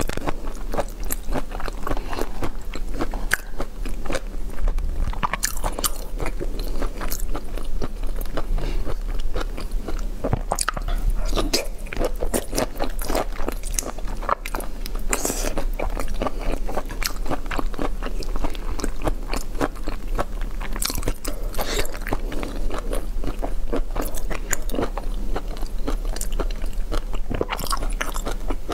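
Close-miked biting and chewing of raw shell-on prawns: a continuous run of sharp crunches and crackles, over a steady low hum.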